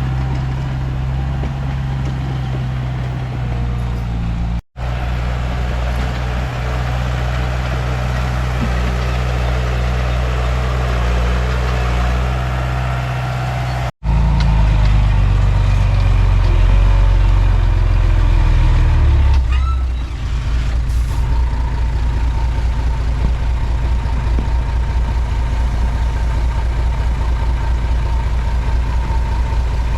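Heavy diesel engine of a Komatsu D31P crawler bulldozer working under load. It runs steadily, its pitch shifts up and down around the middle, then it settles into a low, evenly pulsing rumble. The sound cuts out abruptly twice, briefly, about five and fourteen seconds in.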